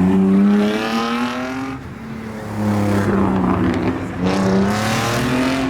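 Modified car engines accelerating away with the engine note rising, dropping off about two seconds in, then climbing again near the end, over a steady engine hum.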